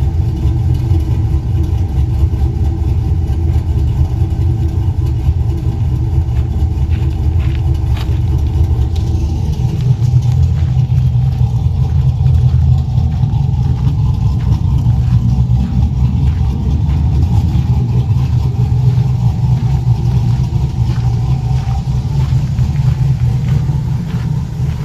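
2004 Chevrolet Silverado's engine and exhaust running with a steady, loud, deep rumble that changes tone about nine seconds in.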